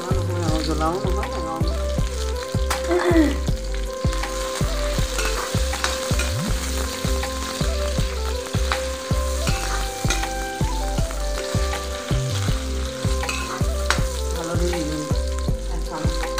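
Sliced onion and green chillies sizzling in hot oil in a metal kadai, frying for a dal tempering. A steel ladle stirs them and scrapes against the pan now and then.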